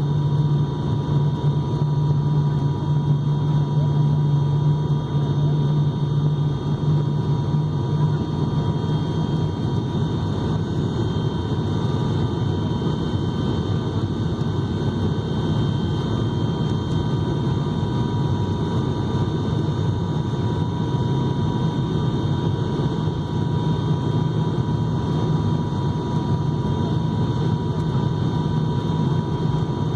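Airliner cabin noise: the engines and airflow make a steady low drone, with a few faint steady whining tones above it. The lowest part of the drone is strongest in the first third and eases a little after that.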